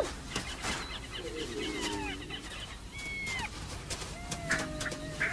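Wild animal calls: several short whistled calls falling in pitch and one longer held whine, over scattered clicks.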